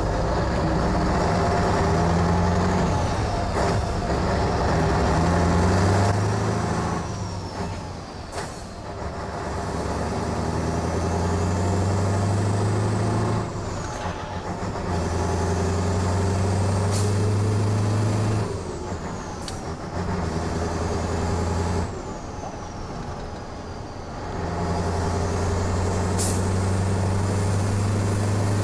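Scania 142H truck's V8 diesel running under load in several long pulls, with the level dropping between them as the throttle comes off or a gear changes. A turbo whistle rises through each pull and falls away at each lift. Short air hisses come in between.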